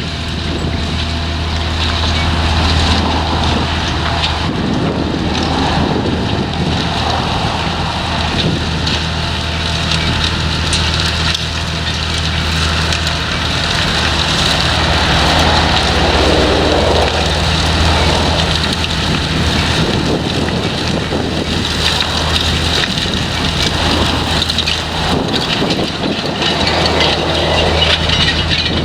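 Potato harvester at work: a steady low engine drone under a continuous dense clatter from the machine's working parts.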